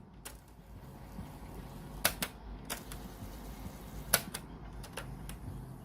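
A run of sharp mechanical clicks, several in quick pairs, from the JVC PC-V55 radio cassette player's controls being worked while its playback is stopped.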